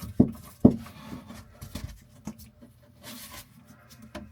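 Handling knocks and rubbing from hand-tightening a faucet's mounting nuts under a bathroom sink: two sharp knocks in the first second, then lighter clicks and a brief rustle about three seconds in.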